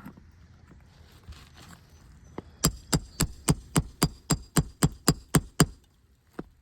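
Roofing hammer tapping on a brittle three-tab asphalt shingle: a run of about a dozen sharp, even strikes, around four a second, with a single lighter tap before and after. The tapping is a test of the damaged shingle, knocking its granules loose.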